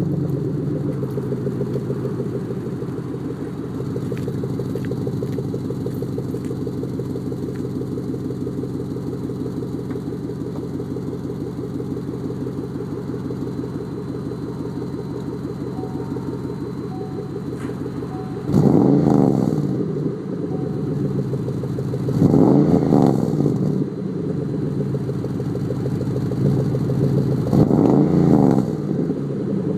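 2006 Chevrolet Monte Carlo SS's V8 exhaust through Loud Mouth 2 mufflers, idling steadily just after start-up, then blipped three times in the second half, each rev rising and falling back to idle.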